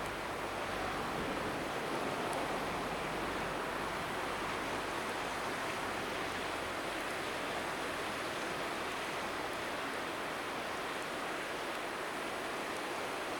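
River water rushing steadily, with some wind buffeting the microphone.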